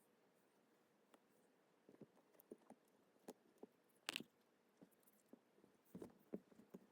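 Near silence in a small room with faint, scattered light taps and clicks, one sharper click about four seconds in.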